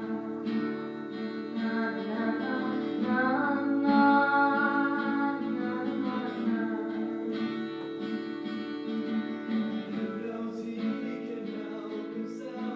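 Acoustic guitar strummed, with a voice singing a song over it.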